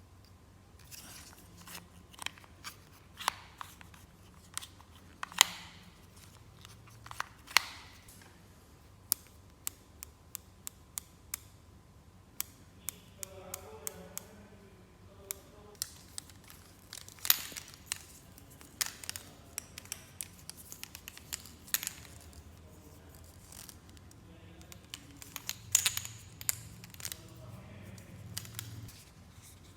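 Toy packaging and plastic playset pieces being handled and cut during an unboxing: a string of sharp, irregular clicks and snips, with some crinkling.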